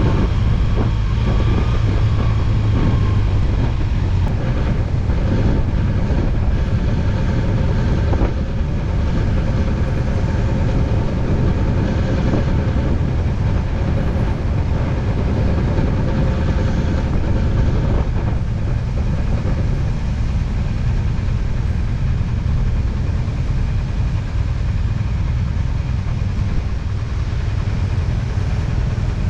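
BMW R1200GS Adventure motorcycle's flat-twin boxer engine running steadily at road speed, under a heavy low rumble.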